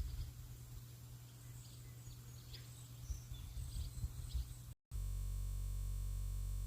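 A few short bird chirps over a low rumble; about two-thirds of the way in the sound drops out for an instant and turns into a steady, flat buzz that holds at a constant level to the end, a glitch in the audio.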